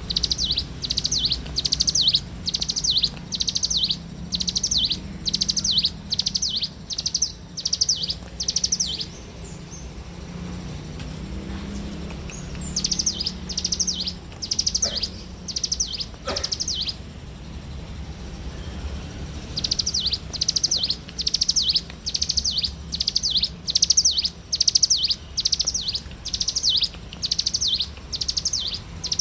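Ciblek gunung (mountain prinia) singing vigorously: a fast run of short, high trilled phrases, about two a second, that breaks off twice for a few seconds before resuming. A steady low rumble runs underneath.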